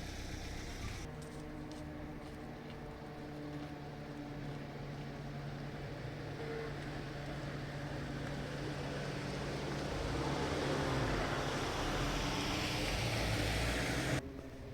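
A motor vehicle engine running steadily, its noise growing louder about two-thirds of the way through, then cutting off abruptly near the end.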